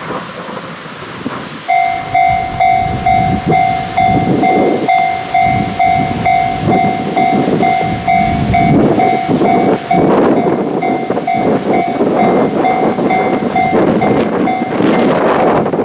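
Freight train of container wagons behind an EF65 electric locomotive rolling past, wheels clattering over the rail joints. From about two seconds in, a bell-like warning tone dings over it about three times a second.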